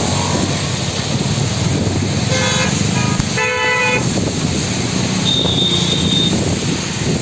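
Road traffic running steadily, with vehicle horns honking twice, a short honk about two and a half seconds in and a longer one about a second later. A thin high tone is heard briefly a couple of seconds after that.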